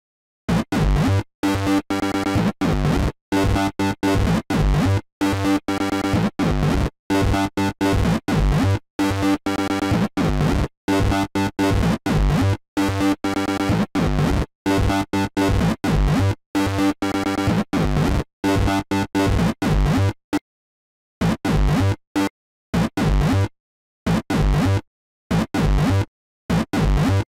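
Electro house synthesizer track at 130 bpm playing from music production software, a dense loop of synth and bass. The playback is started and stopped over and over, so the music keeps cutting to dead silence and resuming, with a longer break about 20 seconds in.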